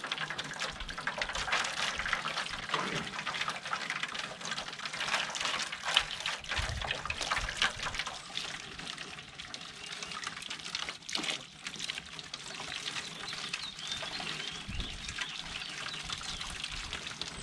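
Near-boiling water poured from a pan steadily splashing over a plastic car bumper, with a few louder splashes, to heat the plastic so the dent can be pushed out.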